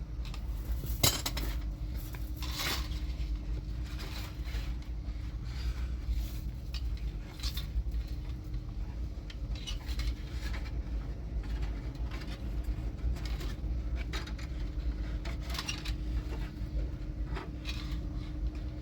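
Irregular light clinks and knocks of objects being handled, the sharpest about a second in, over a steady low rumble and a faint steady hum.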